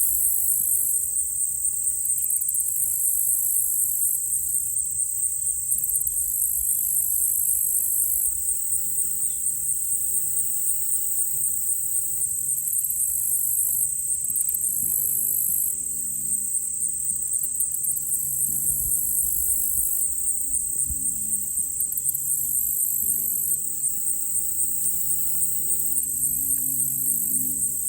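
A chorus of crickets and other insects keeps up a steady, high-pitched pulsing trill throughout. Underneath it is a faint low drone of a distant small propeller plane, which grows somewhat stronger in the second half.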